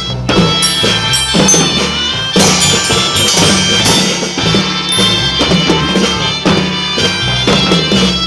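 Kindergarten children's marching band playing a tune: a reedy melody held over drums and tambourines.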